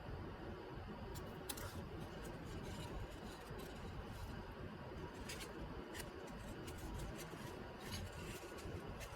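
Small scissors snipping at a decal sheet, a scattering of light, irregular snips over a steady background hiss.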